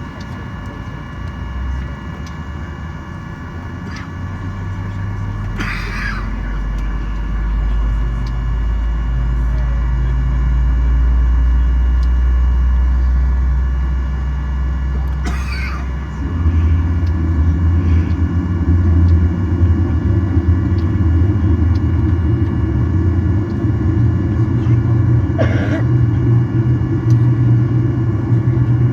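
Aircraft de-icing heard from inside the cabin of a Boeing 737-800: a low rumble from the de-icing truck and its spraying builds over several seconds, then about halfway through it shifts abruptly to a heavier, steadier rumble. A steady cabin whine runs underneath, and a few brief sharp sounds stand out.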